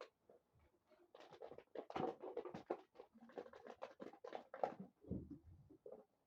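Puppies chewing and batting plastic water bottles: a faint, irregular run of plastic crinkling and clattering, with a few dull knocks.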